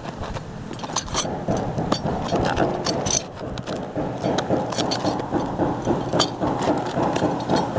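Scattered sharp clicks and knocks over a steady low rumbling noise, as a freshly forged blade and the phone are handled in gloved hands.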